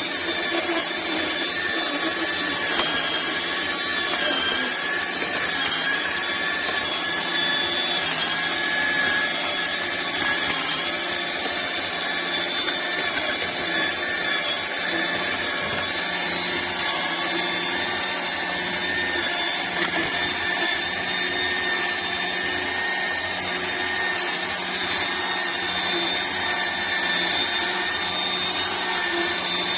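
AMZCHEF cold-press (slow) juicer's electric motor and gear drive running continuously, a steady mechanical hum with a high whine whose pitch wavers slightly during the first half.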